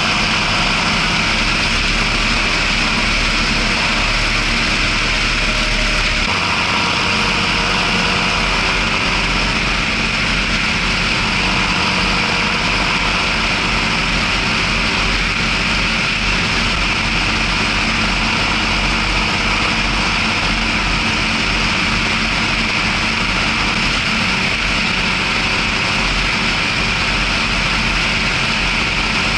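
John Deere 6620 tractor's six-cylinder diesel engine running steadily under load, heard from the cab while it pulls two loaded trailers. The tone shifts slightly about six seconds in.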